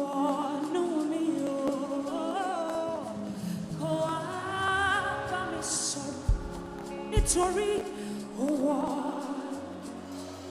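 Gospel worship music: a solo voice singing a melismatic line over keyboard and band accompaniment, with two low thumps a little past the middle.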